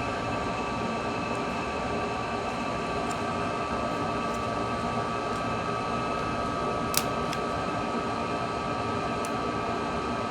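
Steady fan noise in a small room with a constant thin whine, and a few light clicks of small tools on a phone being reassembled, the sharpest about seven seconds in.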